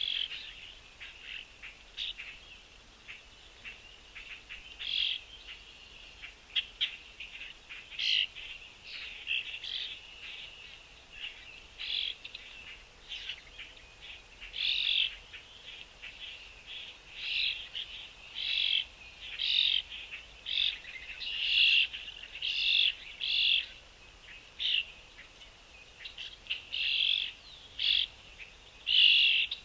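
Birds chirping: a run of short, repeated calls, sparse at first and coming about once a second, louder and closer together, in the second half.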